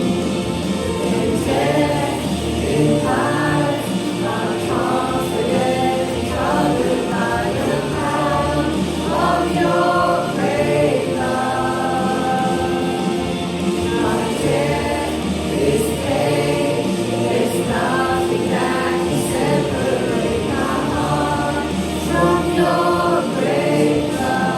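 Church worship music: several voices singing together over a steady musical accompaniment, in a gospel style.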